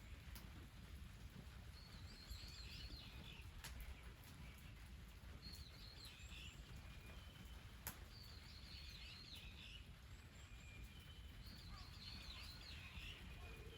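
A small songbird singing faintly, repeating the same short, high-pitched phrase about every three seconds, over a low steady background rumble.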